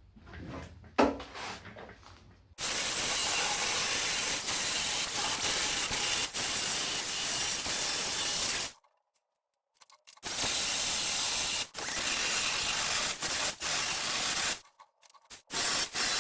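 Electric finger file (narrow-belt sander) grinding down weld seams on a car's steel sill panel, run in bursts: about six seconds, a pause, about four seconds more, then a short burst near the end. A single knock about a second in, before the sanding starts.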